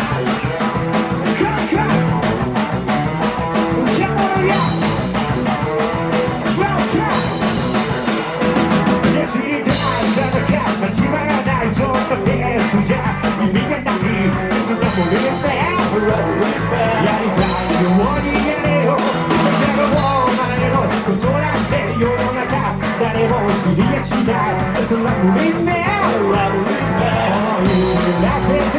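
Rock band playing live: drum kit, electric guitars and bass in an instrumental passage, with a brief break about nine and a half seconds in.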